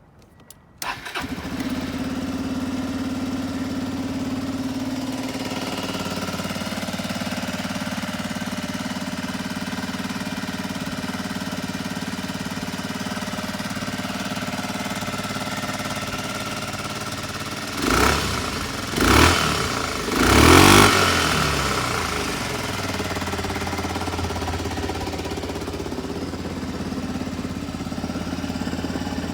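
Suzuki Skywave 250 (CJ43A) scooter's single-cylinder four-stroke engine starting with a brief crank about a second in, then idling steadily; the idle settles lower after a few seconds. About two-thirds of the way through, the throttle is blipped three times in quick succession, each rev rising and falling back to idle.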